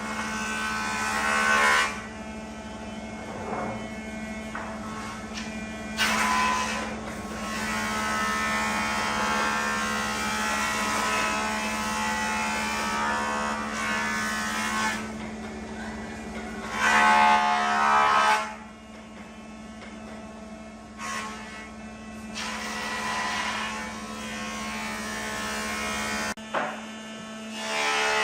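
A small electric motor running with a steady hum, and louder whining stretches every few seconds.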